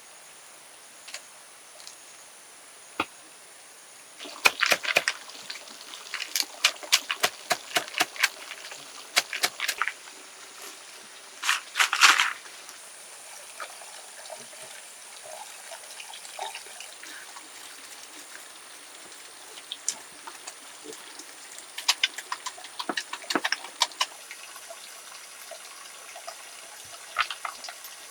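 Water splashing and trickling in short, irregular bursts, loudest about twelve seconds in, with quieter stretches between.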